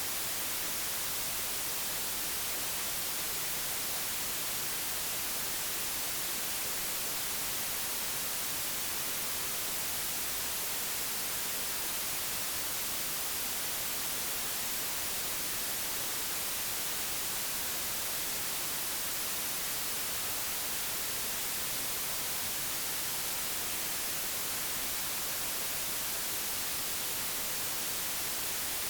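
Digitally generated white noise: a steady, even hiss spread across the whole range, with no change in level or character.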